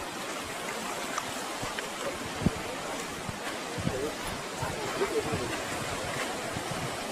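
Steady rushing of ocean surf, with a few light knocks.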